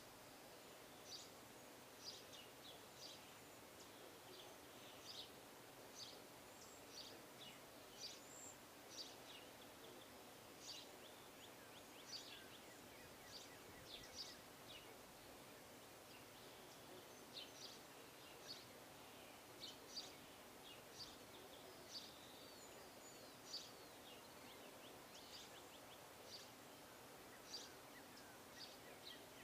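Small birds chirping faintly: many short high calls, about one or two a second, over a steady background hiss.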